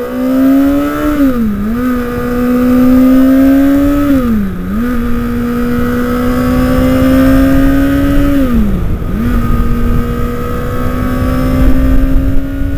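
Kawasaki ZX-6R's inline-four engine accelerating from a stop and pulling up through the gears, its pitch climbing and then dropping at three upshifts. Wind buffeting on the helmet microphone grows as speed builds.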